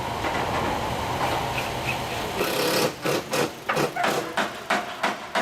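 A steady mechanical rumble, then, about three seconds in, a run of regular hammer blows on the wooden parts of a danjiri float being assembled, about three blows a second.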